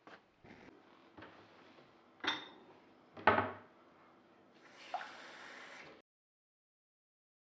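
Household handling sounds: a few light knocks, a clink that rings briefly, and a louder knock, followed by water poured out for about a second and a half.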